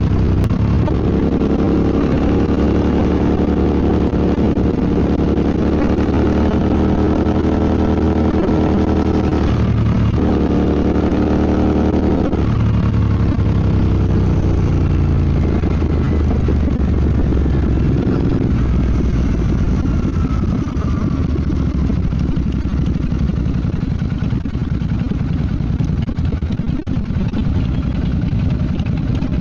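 Royal Enfield Bear 650's parallel-twin engine running under way. Its note breaks and shifts twice, around ten and twelve seconds in. In the second half, wind and road noise grow over a fainter engine note.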